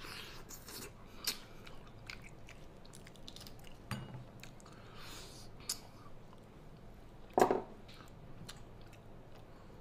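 A person biting into and chewing a braised pig's trotter, with wet smacking and clicking mouth sounds picked up close. There is one short, louder sound about seven and a half seconds in.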